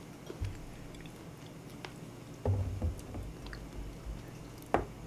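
Close-up chewing and swallowing of a mouthful of corn and whole-bean porridge, with soft mouth sounds and a few faint clicks. A sharper knock near the end as the ceramic bowl is set down on the wooden board.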